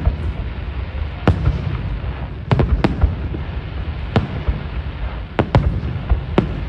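Aerial fireworks display bursting: about seven sharp bangs at uneven intervals, two of them close together near the middle, over a steady low rumble.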